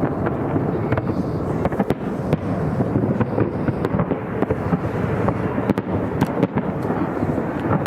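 Fireworks display: a dense, continuous crackle with sharp bangs scattered throughout.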